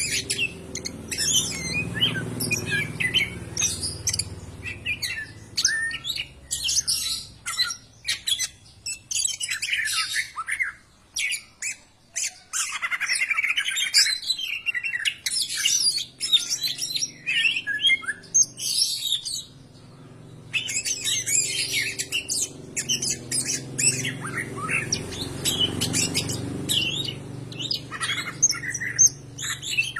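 Greater green leafbird (cucak ijo) singing a long, busy song of quick chirps, whistles and harsh notes, broken by brief pauses, over a faint low hum.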